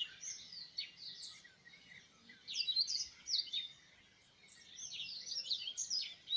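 Small birds chirping in quick, high, twittering bursts, about three clusters a couple of seconds apart.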